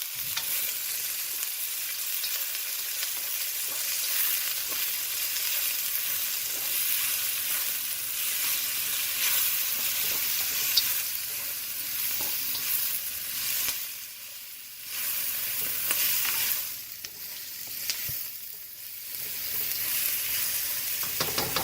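Chopped mushrooms, onions, green peppers and jalapeños sizzling in hot olive oil in a wok on high heat as they are sautéed. The sizzle is steady, with a few light clicks, and dips briefly twice in the second half.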